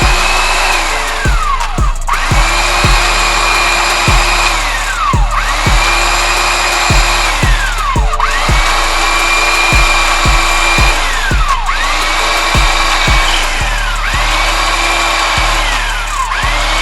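Electric drill run in repeated short bursts, about six times: each time the motor whine rises quickly, holds steady for about a second, then winds down as the trigger is released. Background music with a steady beat plays underneath.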